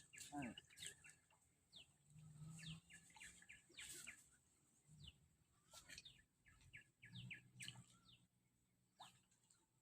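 Faint outdoor bird chirping: many short, quick falling notes, scattered irregularly.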